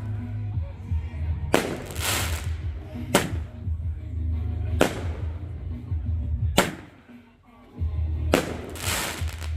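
Fireworks exploding in a steady series, about five bangs spaced under two seconds apart, two of them trailing off in a longer rushing tail. Background music with heavy bass plays under the bangs and drops out for a moment near the end.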